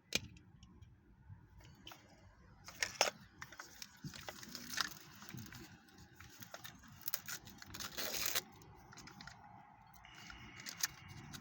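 Plastic toy packaging and small plastic parts being handled and opened: scattered clicks with short bursts of crinkling and tearing, loudest about three seconds in, near five seconds, and again around seven to eight seconds.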